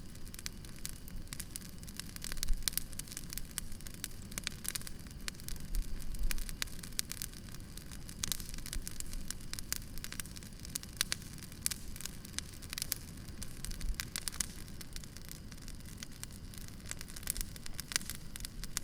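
Campfire burning, crackling with dense, irregular snaps and pops over a steady low rumble, with a few louder low thumps.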